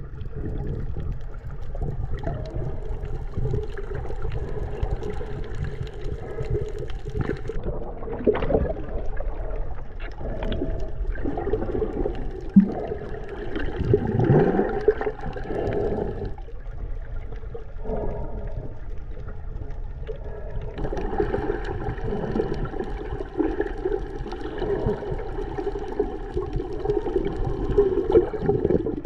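Water gurgling and sloshing, heard muffled from underwater while snorkelling, with a few swells and bubbly sweeps around the middle.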